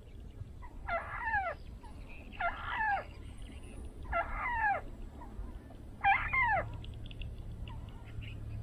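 Harsh bird calls, each a quick cluster of falling notes, repeated four times about every one and a half to two seconds, over a low steady hum that grows near the end.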